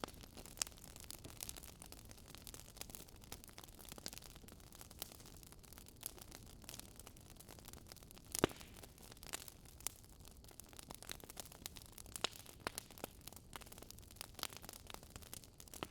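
Wood fire crackling: irregular sharp pops and snaps over a faint steady hiss, one pop louder than the rest about eight seconds in.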